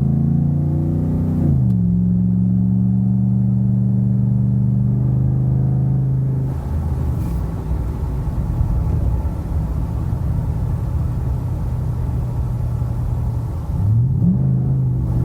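The 5.0 V8 of a 2015 Ford F-150, breathing through an aftermarket WWP stainless dual exhaust, pulling on the road. The engine note climbs, then drops sharply at a gear change about a second and a half in, and holds steady before settling into a lower, rougher rumble. It rises briefly again near the end.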